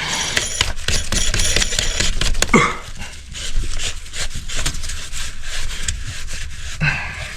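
A man grunting and breathing hard with effort while rubbing and scraping metal parts, forcing a greased, spring-loaded part into place; two short strained grunts.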